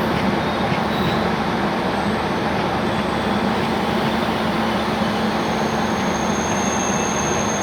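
Indian Railways train hauled by a WAP-4 electric locomotive running at speed: a steady, loud rolling rumble with a low, even hum under it. A faint high, thin whine joins it a little over six seconds in.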